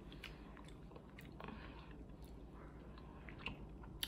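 Faint chewing and mouth clicks of several people eating fruit slices, with a sharper click near the end.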